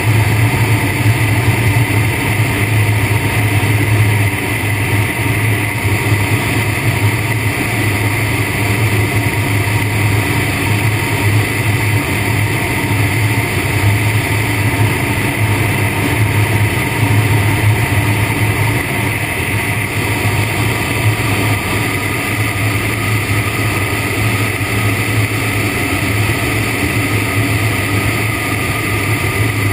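Steady, loud in-flight noise of an Air Creation Tanarg ultralight trike, with a strong low hum and constant higher tones that shift slightly partway through.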